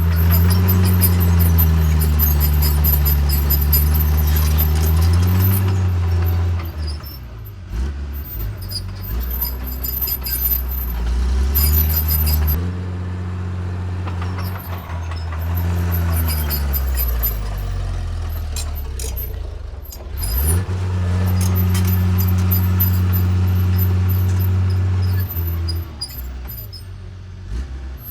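Heavy diesel engine of earthmoving equipment working, its note repeatedly dropping and climbing as it is throttled. About two-thirds of the way through it revs up sharply and holds high revs for several seconds, then eases off near the end.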